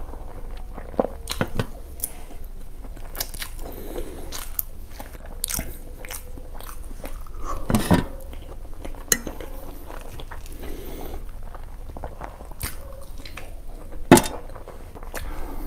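Close-up mukbang eating sounds: a person biting and chewing food, with wet smacks and crunches. Two louder sharp sounds stand out, one about halfway through and one near the end.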